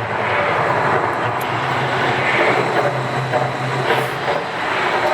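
Steady, loud rumbling roar of a Las Vegas volcano show's eruption, with no clear beat or tones.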